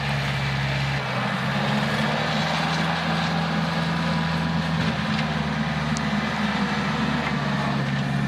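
Tractor engine running steadily, with a slight change in its tone about a second in.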